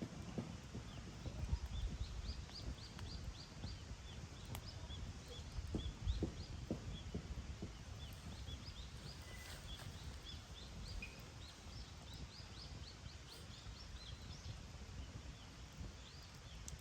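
Wood campfire crackling: irregular sharp pops and snaps over a low rumble of the flames. Faint, quick high chirps repeat in the background.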